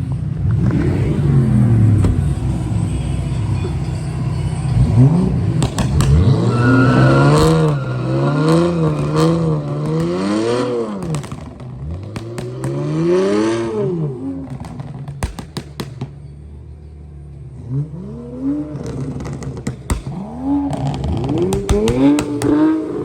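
Infiniti Q50 with its muffler deleted, revved again and again: the exhaust note rises and falls in a string of quick blips and longer pulls, with sharp cracks between the revs.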